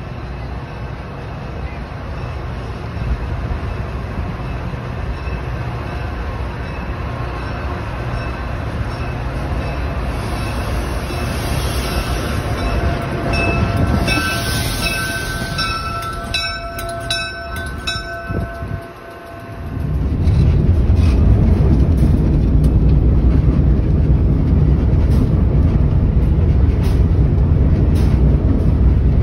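A WeGo commuter train arriving at a station platform, its noise building as the bilevel cars roll past, with several held high tones for a few seconds as it comes in. Partway through the sound changes abruptly to a louder, steady low rumble of the train running along the line, heard from the cab end.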